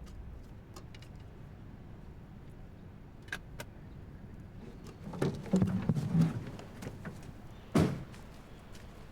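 Quiet scene sounds: a few light clicks, then a stretch of louder knocks and shuffling about five seconds in, and one sharp thump, like a door shutting, near the end.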